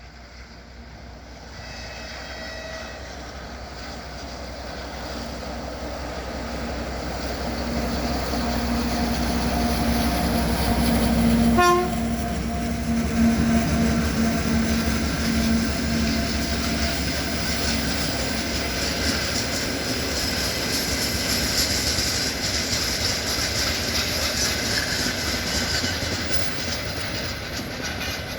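M62 diesel locomotive with its two-stroke V12 engine running under load, growing steadily louder as it approaches and cutting down abruptly as it passes, about twelve seconds in. Its freight wagons then roll by with a steady rumble and wheel clatter.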